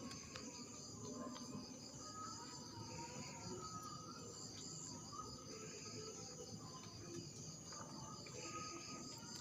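Faint, steady high-pitched chirring of insects, likely crickets, pulsing rapidly and continuously over low background noise.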